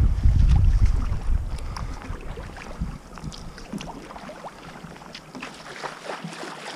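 Wind rumbling on the microphone, dying away over the first two seconds, then small water splashes and drips from a kayak paddle.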